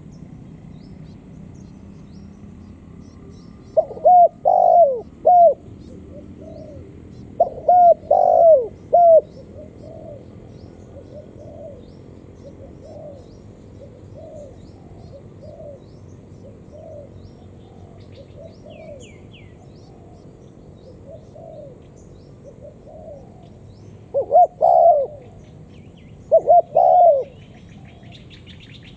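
Spotted dove cooing: four loud phrases of short, rising-then-falling coo notes, two in the first third and two near the end, over a steady run of softer coos about once a second. A few faint high chirps from small birds near the end.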